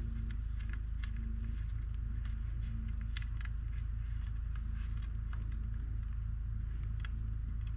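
A steady low hum with scattered light clicks and ticks.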